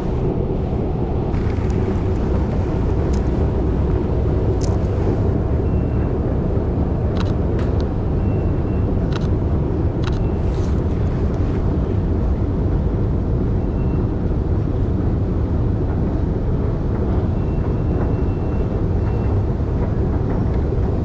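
Steady low rumble of busy city background noise, with a few sharp clicks about a third of the way in.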